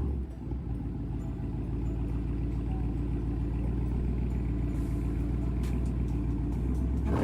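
Supercharged car engine idling with a steady, even rumble.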